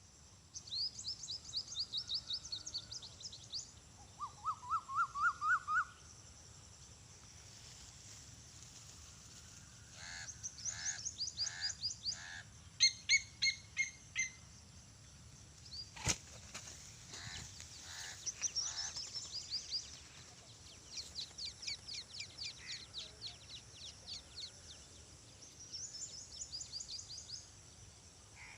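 Birds calling in separate bursts of quick, rapidly repeated high chirps, with one lower run of rising notes about four seconds in and a single sharp click about halfway through, over a faint steady high hiss.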